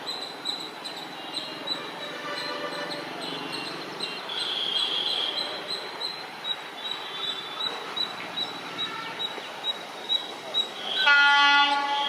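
Faint voices of people on a railway platform, then about eleven seconds in a WAG-9 electric locomotive's horn sounds loudly for about a second.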